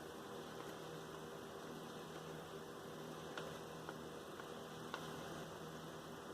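Quiet room tone with a steady electrical hum and a few faint clicks in the middle.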